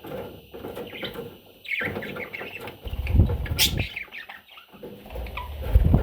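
Budgerigar chicks chirping and squeaking in short, rising calls, with rustling and low bumps as they shift about, the loudest bumps about three seconds in and near the end.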